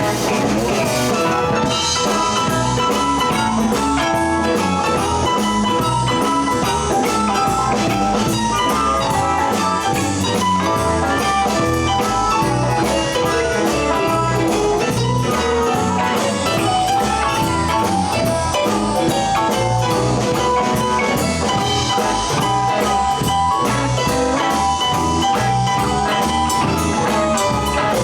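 Live blues band playing an instrumental break: drums and bass keep a steady beat under a lead line of held and bending notes, with guitar in the mix.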